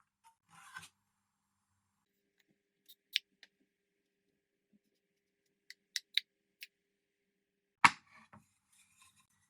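Scattered sharp taps and clicks of wooden parts and hand tools being handled, with a short cluster of clicks past the halfway mark and a louder knock near the end.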